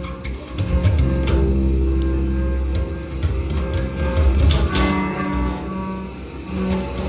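Acoustic guitar and violin improvising freely, the guitar to the fore with many sharp plucked attacks over held notes.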